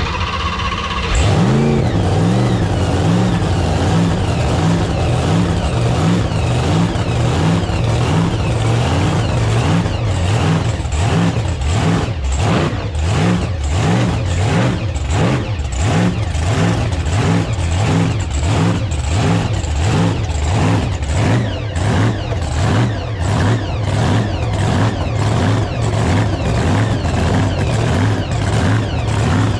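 A 3000 hp Camaro burnout car's engine starting up: it catches about a second in with a brief rise in pitch, then settles into a loud, lumpy idle that pulses a couple of times a second.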